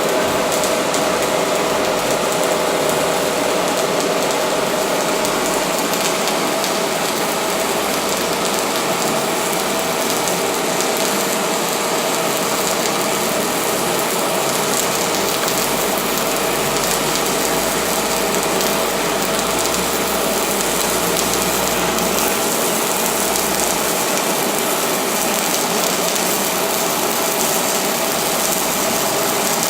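Semi-automatic MIG welding arc from a PowerWave S350 welding power source, running continuously with a steady, dense crackling hiss.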